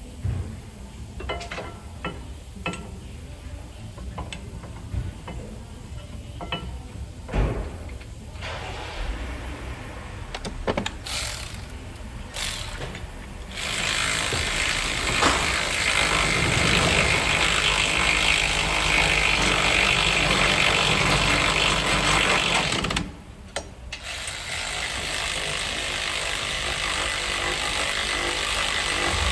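Auto-shop tool work: scattered clicks and clanks of hand tools, then a loud steady power-tool noise that starts about halfway through, cuts out briefly, and starts again.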